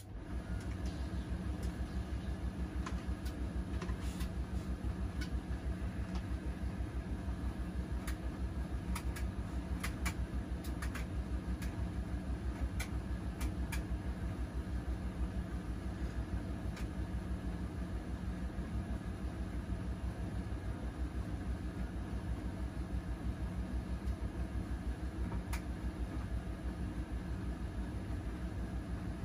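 Washing machine spinning its drum: a steady hum with a fast, even low pulsing, and a few light clicks scattered through it.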